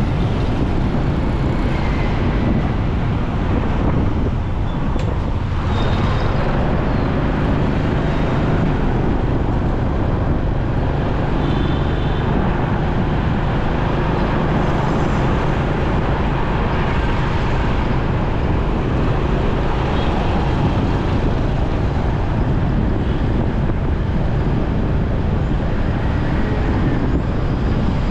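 Steady motorbike ride through busy city traffic: the bike's engine running with continuous road and traffic noise around it.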